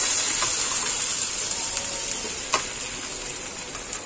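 Mutton keema sizzling in hot oil in a pan: a steady frying hiss that slowly gets quieter, with a single click about two and a half seconds in.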